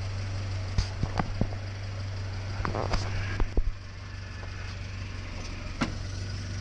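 1953 Willys CJ3B's F-head four-cylinder engine running steadily in reverse gear with the wheels turning, the freshly installed clutch engaged and driving them. A few short clicks and knocks come through over the engine, around one second in, about three seconds in and near the end.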